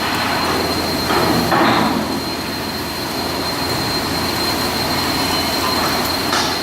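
Steady industrial machinery noise from shipbuilding work, with a constant high whine and a brief louder rush about a second and a half in.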